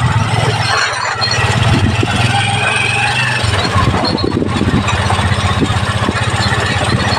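Small motorcycle engine of a kolong-kolong three-wheeler running steadily as it rides along, with a faint high squeal about two to three seconds in.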